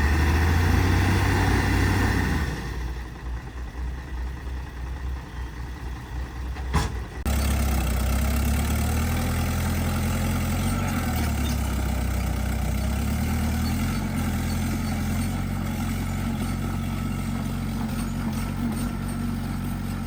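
Heavy diesel engine of earthmoving machinery running: loud for the first two seconds or so, then quieter, with a sharp knock near seven seconds, after which a steady engine drone starts up abruptly and holds.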